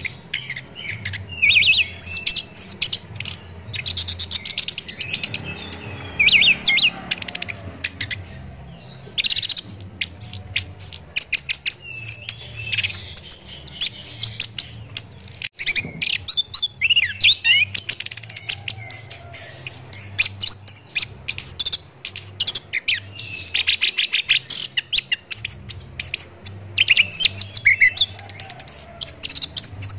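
Chestnut-capped thrush (anis kembang) singing a fast, varied song of sharp chirps, rapid ticking notes and whistled glides, almost without pause apart from one brief lull near the middle.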